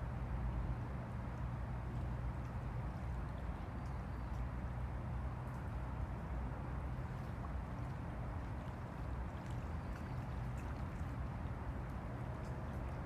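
Small waves on the Han River lapping and sloshing steadily, over a constant low rumble.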